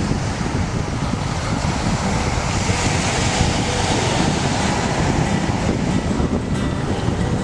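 Steady wind buffeting the microphone, with the broad wash of ocean surf behind it that swells a little a few seconds in.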